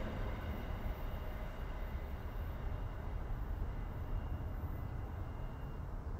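A train that has just passed dying away into the distance, its rumble slowly thinning out over a steady low rumble.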